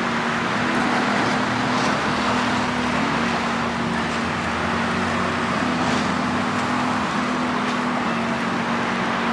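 A vehicle running steadily: an even rushing noise with a low hum that shifts slightly in pitch every second or so.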